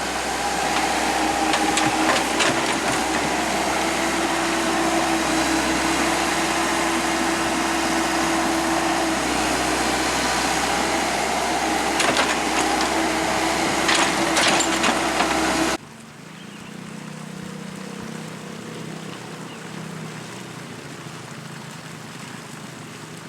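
Excavator's diesel engine running steadily with its hydraulics whining and a few sharp knocks. About sixteen seconds in, the sound drops abruptly to a quieter, lower engine hum.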